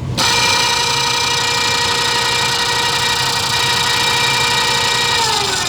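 Rescue boat davit winch motor switching on abruptly and running with a steady whine, then slowing near the end, its pitch falling.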